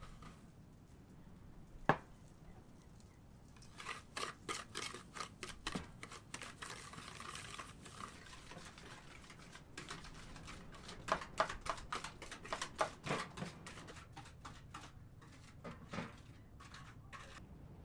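Quick, irregular clicks and knocks in two runs of a few seconds each, after a single sharp knock.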